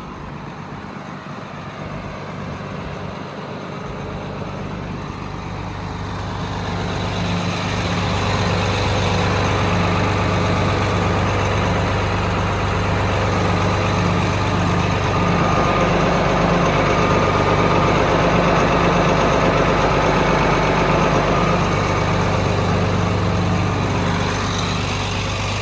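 1982 John Deere 8450 tractor's diesel engine idling steadily, growing louder over the first eight seconds or so and then holding at a constant low hum.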